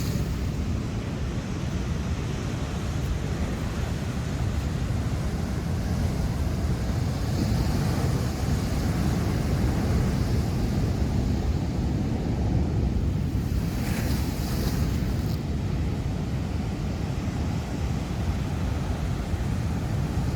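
Heavy ocean surf breaking steadily, with wind buffeting the microphone.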